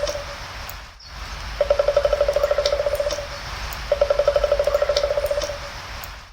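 Woodpecker drumming: two rapid rolls of knocks, about fifteen a second, each lasting about a second and a half, over a steady outdoor hiss.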